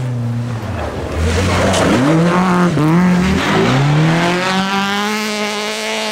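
Rally car engine revving hard on a snow stage: its pitch dips sharply a few times around two to three and a half seconds in, then climbs steadily as the car accelerates past.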